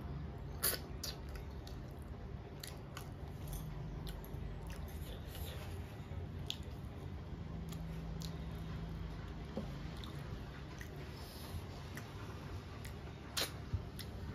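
A person biting and chewing food with her mouth close to the microphone: wet, smacking mouth sounds and small clicks, over a faint steady low hum. Two sharper clicks stand out, about a second in and near the end.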